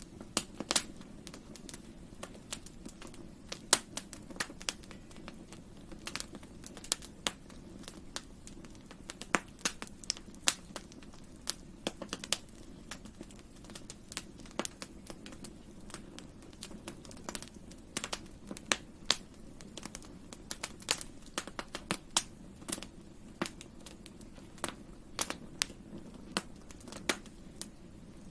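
Wood fire crackling: sharp irregular pops and snaps over a steady low rumble of burning.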